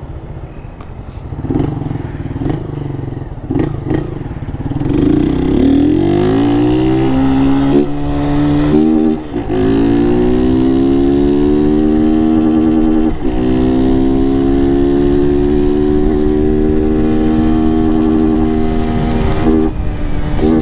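Honda CG 160 Start's single-cylinder four-stroke engine, running without its air filter, pulling away hard through the gears. The engine note rises, drops briefly at gear changes about nine and thirteen seconds in, then holds steady at cruising speed, with another shift near the end.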